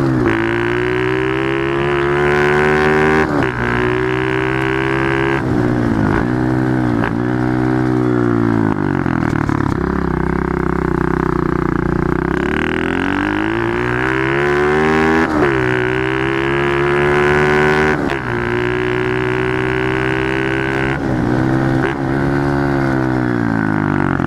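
Pit bike engine revving hard under acceleration, its pitch climbing and then dropping sharply several times as the rider shifts up through the gears, with a steadier stretch about ten seconds in. The engine is being pushed to high revs.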